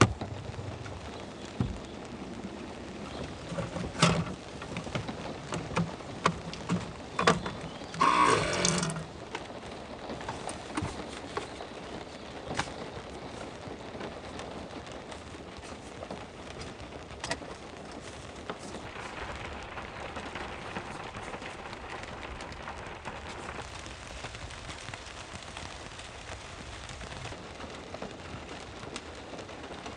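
Steady rain falling, an even hiss throughout. Over it comes a series of sharp knocks and clicks in the first nine seconds or so, the loudest a brief clattering rattle about eight seconds in.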